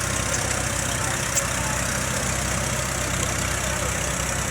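Tractor engine running steadily at low revs, with a single sharp click about a second and a half in.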